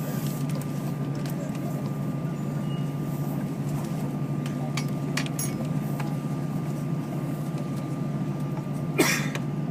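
Steady cabin hum of an Airbus A319 after landing, with a constant thin whine above it. Scattered light clicks and clinks, and one louder click about nine seconds in.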